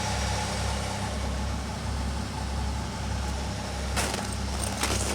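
Car engines idling in extreme cold, about −8°F, just after their cold starts: a steady, slightly pulsing low hum. Two short sharp knocks come about four and five seconds in.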